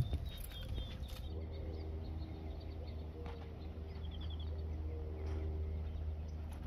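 Small birds chirping briefly a few times, short quick trills, over a steady low hum.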